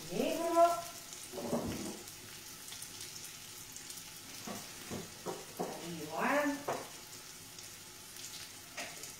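Guanciale frying in a pan with a steady, faint sizzle. A woman's voice makes two short sounds, one near the start and one about six seconds in, and there are a few light knocks.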